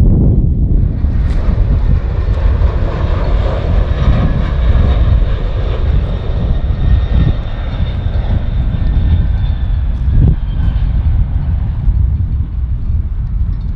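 Jet airliner's engines running as it passes the airfield: a loud, steady low rumble with a hiss that swells in about a second in, and a high whine that sinks slightly in pitch.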